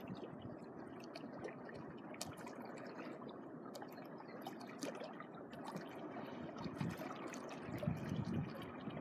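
Small sea waves lapping and trickling at the shoreline, full of small splashes and crackles. Low wind buffeting on the microphone comes in near the end.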